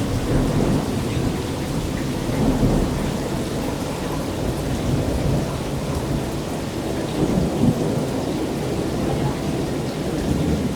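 Heavy rain with thunder rumbling almost without a break from a thunderstorm directly overhead, the rumble swelling louder a few times.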